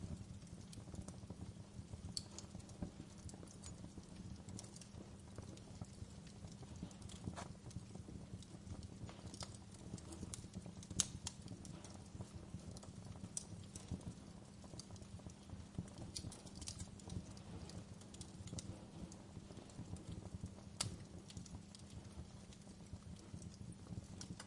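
Wood campfire burning: a steady low crackle with scattered sharp pops, the loudest about eleven seconds in and another near twenty-one seconds.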